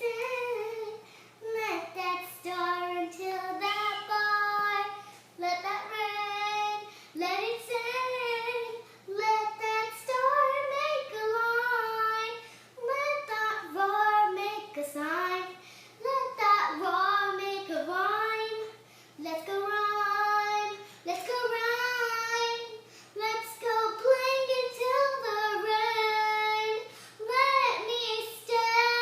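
A young girl singing a song in English, unaccompanied, in phrases of a second or two with short breaths between them.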